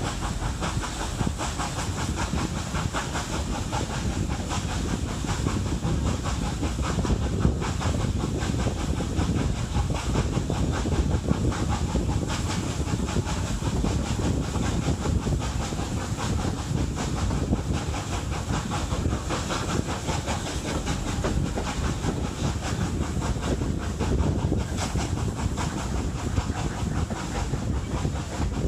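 Hunslet Austerity 0-6-0 saddle-tank steam locomotive working a train: a steady, rhythmic exhaust chuff with hiss of steam, over the rumble and click of the train's wheels on the rails.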